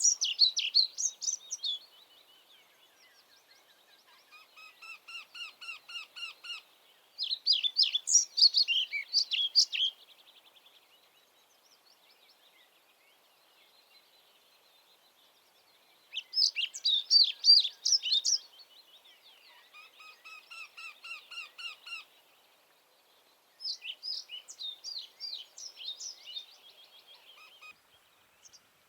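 Songbirds singing: one bird repeats a loud, rapid, high-pitched song phrase of two to three seconds about every seven or eight seconds, and a quieter second song with some lower notes fills two of the gaps.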